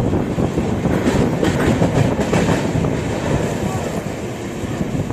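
Passenger train running at speed, heard from an open coach doorway: a steady rumble of wheels on the rails, with a short run of sharper clacks from the rail joints a second or two in.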